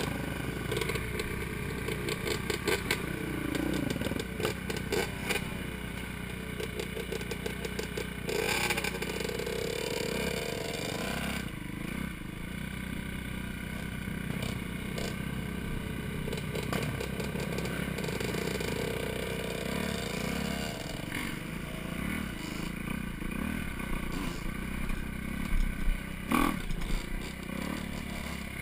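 Four-stroke dirt bike engine running on a trail ride, its revs rising and falling over and over as the throttle is worked, with clattering and scraping from the bike over rough ground.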